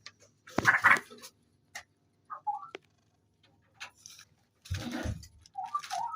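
Scattered clicks and rustling knocks, with short chirping calls from straw-headed bulbuls (cucak rowo) about two and a half seconds in and again near the end.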